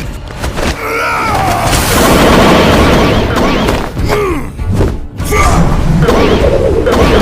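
Action soundtrack music layered with booming impact sound effects and short sweeping pitched glides, dropping out briefly about five seconds in.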